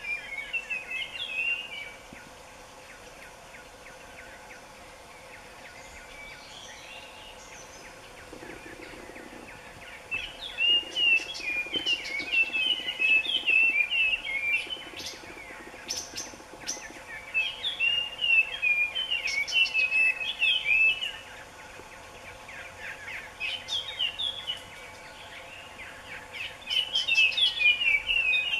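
Birds chirping and twittering in quick, high bouts of notes, with lulls of near quiet: one bout at the start, then fuller bouts from about ten seconds in, broken by a pause a little past the middle.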